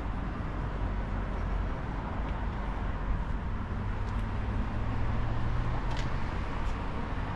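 Steady outdoor road-traffic noise: a constant low rumble with a few faint ticks.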